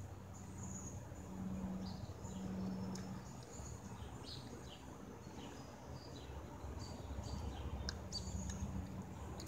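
Small birds chirping in the trees: many short, high chirps, some falling in pitch, over a faint low hum.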